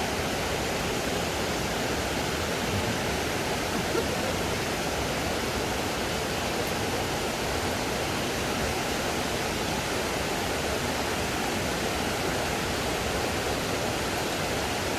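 Waterfall: water pouring over rocks in a steady, even rush.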